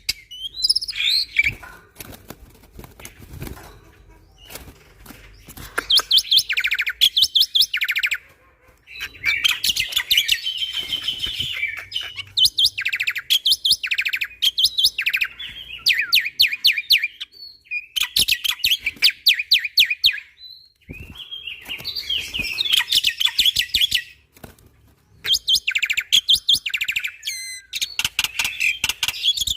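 Black-winged starling singing in bursts of rapid, rattling repeated notes, each lasting a second or two, separated by short pauses.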